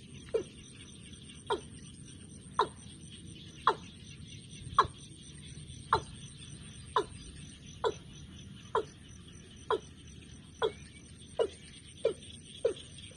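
A bird calling over and over, each call a short note that slides quickly down in pitch, about one a second and quickening to two or three a second near the end. A steady high insect trill runs underneath.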